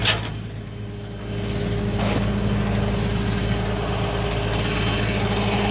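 Vehicle engine idling steadily, with a sharp click right at the start; the engine grows a little louder about a second in.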